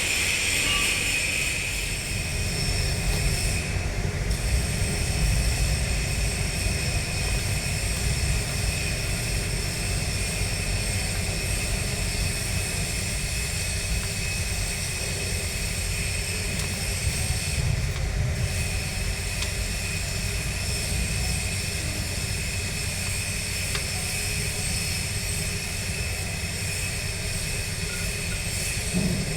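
Diesel engine of heavy machinery running steadily: a continuous low rumble with a steady high whine over it.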